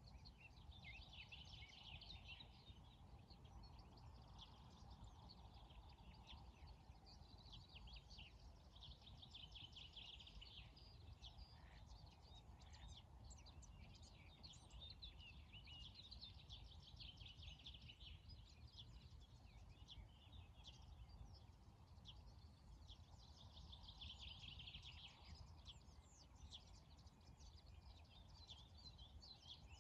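Faint birdsong: many small birds chirping in quick clusters over a steady low rumble.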